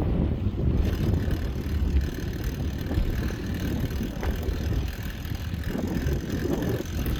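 Wind buffeting the microphone while riding a bicycle: a steady, loud low rumble.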